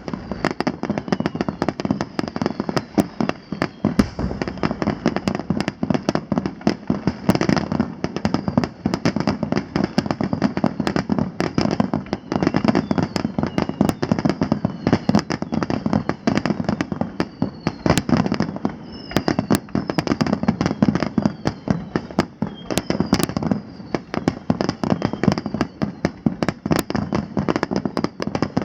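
A fireworks display in full barrage: a dense, continuous run of shell bursts and crackling, with short falling whistles among them.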